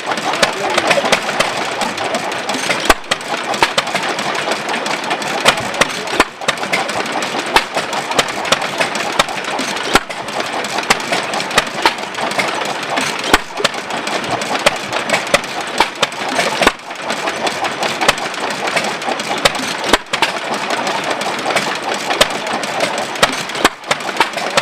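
Amanco 'Hired Man' 2 1/4 hp hit-and-miss gas engine running, firing with a sharp loud stroke about every three and a half seconds and coasting between firings with a steady rapid mechanical clatter.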